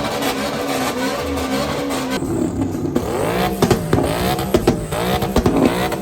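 Car engine revving. Its pitch wavers at first, then rises and falls repeatedly through the second half, with sharp pops among the revs.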